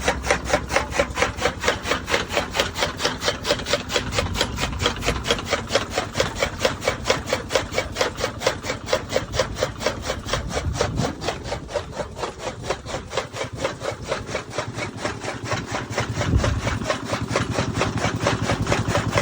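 A fast, even rhythm of scraping or rubbing strokes, about four or five a second, with a couple of dull low thumps partway through.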